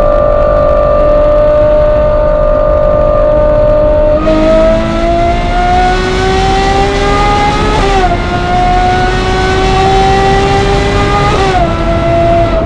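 Ferrari 812 GTS's 6.5-litre V12 through a Novitec exhaust, heard from inside the cabin. It cruises steadily, then about four seconds in kicks down and pulls hard under full throttle, its pitch rising, with two quick upshifts near eight and twelve seconds.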